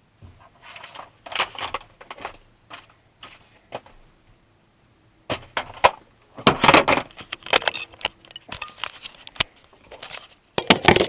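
Irregular jangling and clattering, a run of sharp rattles and knocks that grows busier and louder about five seconds in.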